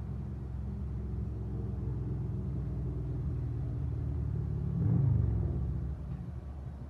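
A motor vehicle's engine running, a steady low rumble that swells about five seconds in and then eases off.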